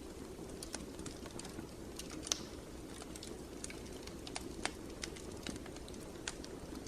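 Wood fire crackling in a fireplace: irregular sharp pops and snaps over a steady low rumble of burning, with the loudest pop about two seconds in.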